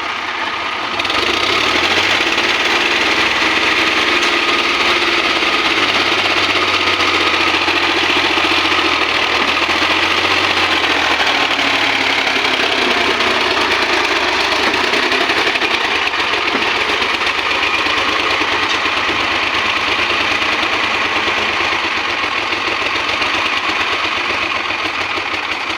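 Sonalika tractor's diesel engine running steadily. It gets louder about a second in and eases off a little near the end.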